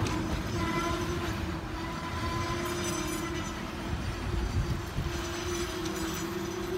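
Empty container flatcars of a freight train rolling past close by: wheels and bogies rumbling and clattering over the rails, with a steady whining tone running through it that dips in the middle.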